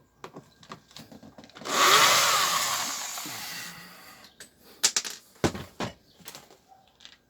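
Power screwdriver whirring for about two seconds, fading as it stops, followed by several sharp clicks and knocks of tools and screws being handled on a speaker cabinet.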